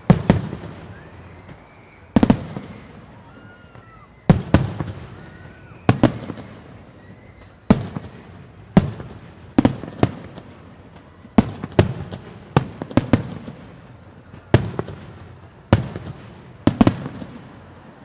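Aerial fireworks shells bursting overhead, a sharp bang every one to two seconds, each followed by a rolling echo; the bursts come faster in the second half.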